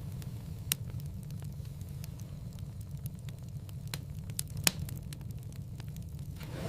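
Wood fire crackling in a fireplace over a steady low rumble of flames, with scattered sharp clicks and a few louder pops, the loudest a little before five seconds in. A soft whoosh comes near the end.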